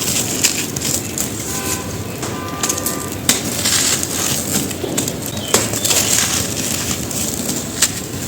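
Dry, gritty red dirt crumbled and crushed by hand, a dense crunching with sharp cracks and snaps.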